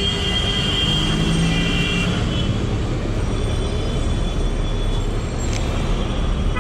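City street traffic: vehicles passing with a steady low rumble of engines and tyres. A long high tone sounds over it for the first two seconds.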